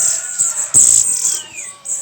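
Many caged songbirds calling together: a steady shrill, high chirping with sharp chirps over it, and one whistled note sliding down in pitch just past halfway.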